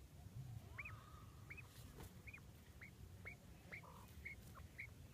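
A bird giving faint, short chirps over and over, about two a second, each a quick up-and-down note.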